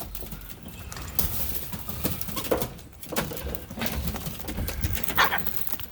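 A group of cockatoos feeding: scattered clicks and taps of beaks and feet, with a few short, soft calls.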